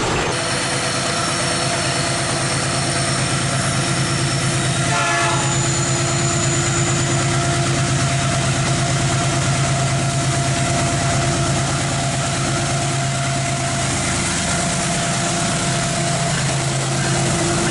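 Diesel freight train running, with the locomotive giving a steady droning hum. High-pitched tones sound over it for the first few seconds.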